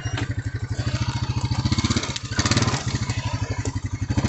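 Quad bike (ATV) engine running at low speed with a rapid, even pulse, briefly louder a little past halfway, as the heavily loaded machine is backed slowly in reverse.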